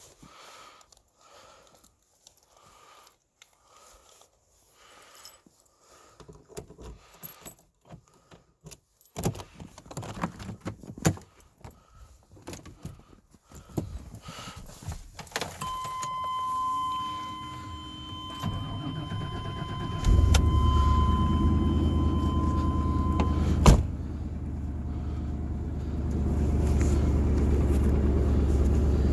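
Footsteps, then the truck door opening, keys jangling and a steady warning chime. The starter cranks for a moment and the 1998 Chevy Silverado's 350 Vortec V8 catches on a cold start at −16 °C and keeps running. About three-quarters of the way through, the door slams shut and the chime stops.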